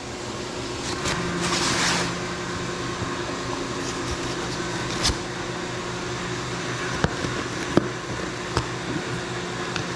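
Steady shop-machinery hum, with a rustling scrape of cardboard box handling about a second in and a few sharp clicks and knocks later as boxes are opened.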